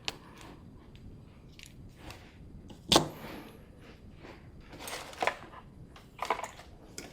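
Hand tools working on electrical wire: one sharp, loud snip about three seconds in, then softer clicks and scraping around five seconds and a short cluster of snaps a little after six seconds.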